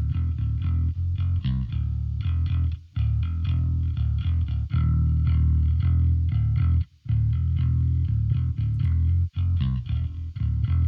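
Electric bass guitar played through a Darkglass Anagram bass processor with an Orange 8x10 cabinet simulation switched in. It plays a busy, rhythmic riff of heavy low notes, broken by short pauses about three, seven and nine seconds in.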